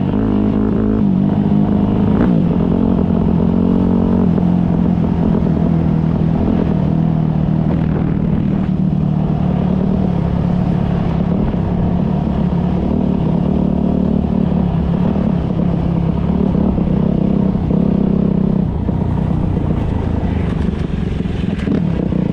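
Motocross motorcycle engine running steadily, its pitch shifting a little, slightly quieter about three-quarters of the way through.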